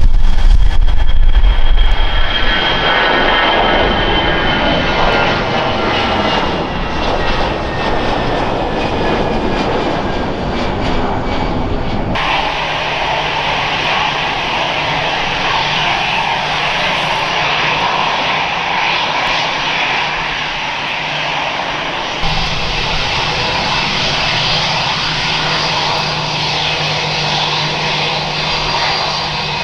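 Jet airliner engines passing close, a loud roar with a high whine that falls steadily in pitch. The sound changes abruptly about twelve seconds in and again about ten seconds later, each time to a steady engine roar with a low hum.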